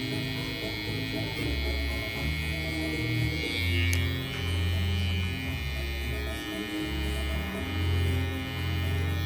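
Electric hair clippers buzzing steadily, over background music with a shifting bass line.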